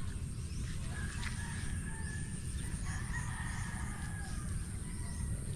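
A rooster crowing once, a long call of about three seconds, over a steady low rumble.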